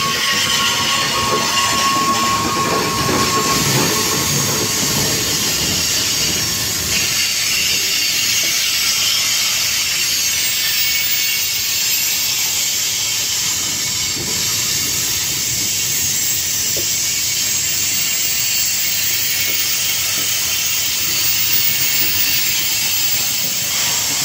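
Freight cars of a manifest train rolling past, a steady noise of wheels on rail with a hiss. A thin wheel squeal fades out in the first few seconds.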